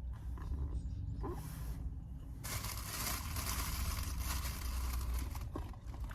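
Paper or plastic food packaging rustling and tearing for about three seconds, starting and stopping abruptly, over a steady low rumble inside the vehicle.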